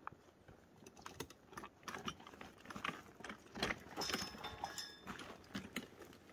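Irregular clicking and light metallic clinking and rattling, with a brief ringing jingle about four seconds in.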